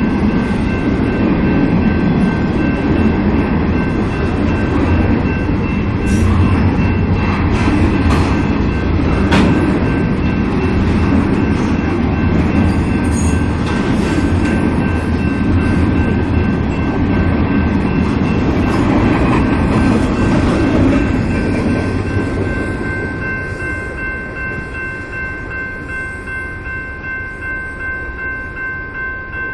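Intermodal freight train rolling past, a loud rumble of cars and wheels on the rails with a steady high whine running through it. The rumble fades from about two-thirds of the way in as the train moves off.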